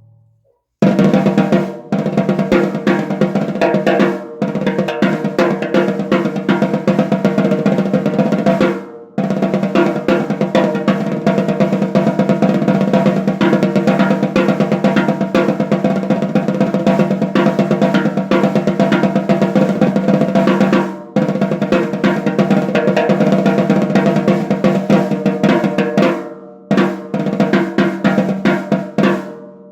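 Noah Pure Alloy 14x6.5" aluminium snare drum played with fast strokes and rolls, the shell ringing steadily under the hits. The playing starts about a second in and pauses briefly three times.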